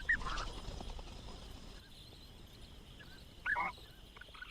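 Two short animal calls over a faint steady natural background: a brief one at the very start and a louder, slightly longer one about three and a half seconds in.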